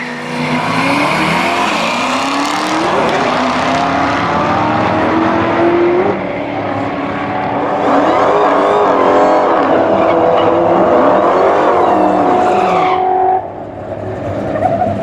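Drag-racing muscle-car engines at full throttle, their pitch climbing, dropping back at each gear change and climbing again. The sound cuts off suddenly near the end.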